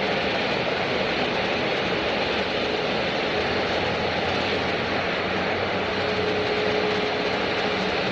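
Jet airliner engines running, a steady rushing noise with a faint constant hum and no rise or fall.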